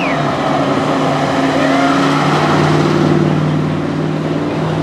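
A car engine running at low, steady revs, a continuous drone that holds its pitch, with a few short chirps over it.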